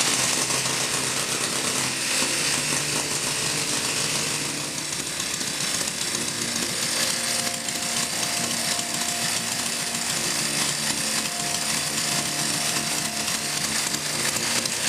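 A motor running steadily with a harsh, rattling buzz.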